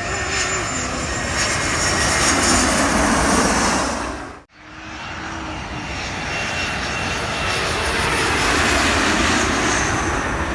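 Jet airliner passing low overhead, a loud engine roar with a thin whine that builds to a peak. It cuts off abruptly about four and a half seconds in, and a second jet's roar builds again, loudest near the end.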